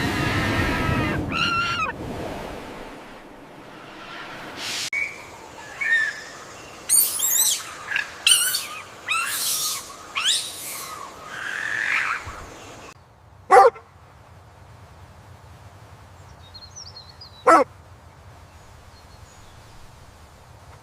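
Bird calls: a run of quick whistled chirps and sweeping notes, then two short sharp calls a few seconds apart.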